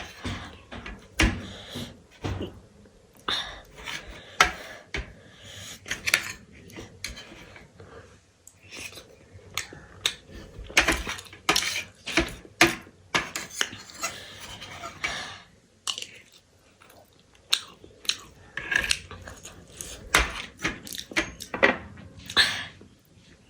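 Cutlery clinking and scraping against a plate or bowl in many short, irregular clicks, with chewing in between.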